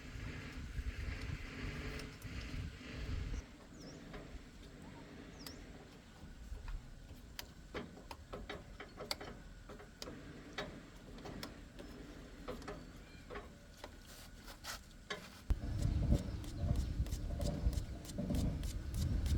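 A run of short, sharp clicks and clinks of hand tools on metal parts, coming faster toward the end, over a low rumble that grows louder about three-quarters of the way through.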